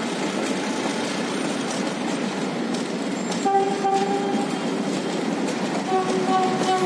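Passenger train coaches rolling past, a steady rumble of wheels on rail with faint clicks. A steady pitched tone sounds about halfway through and again near the end.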